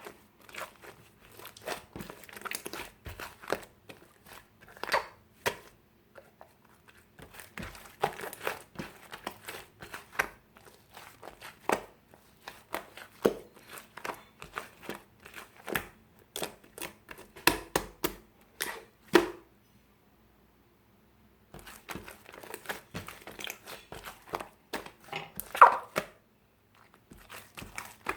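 Slime being mixed with clay by hand, giving irregular sticky pops, clicks and crackles as it is squeezed and stretched. It stops briefly twice.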